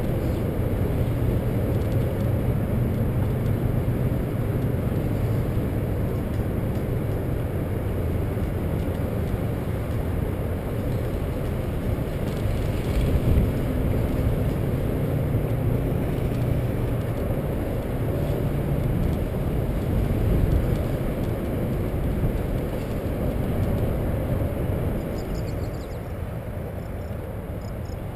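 Steady low rumble of wind on the microphone and rolling noise from a bicycle riding along a trail, with a few faint high chirps near the end.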